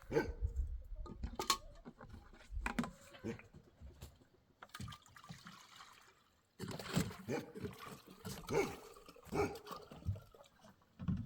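Water splashing and trickling in irregular bursts, with a pause about halfway through.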